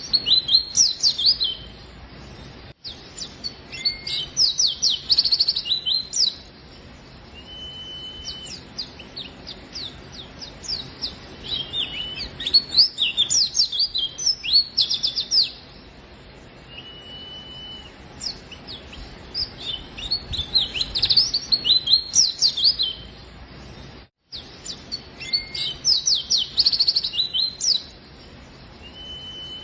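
A white-eye (pleci) singing in repeated bouts of fast, high twittering chirps, each lasting one to three seconds, with pauses between them. A few short, steady whistled notes sound between the bouts.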